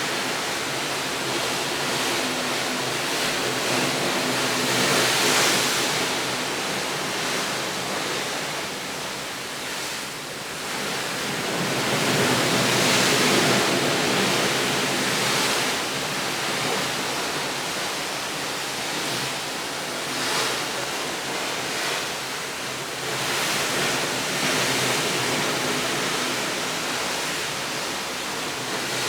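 Steady rushing noise that swells and eases every several seconds.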